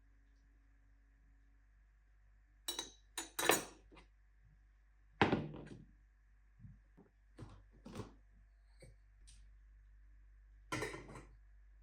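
A series of separate knocks and clatters from objects being handled and set down in a small room, about six in all, the loudest about five seconds in.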